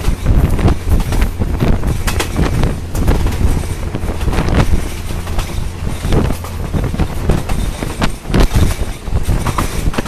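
Wind buffeting a phone microphone held out of a moving passenger train's window, over the train's steady running rumble with irregular knocks and clatter.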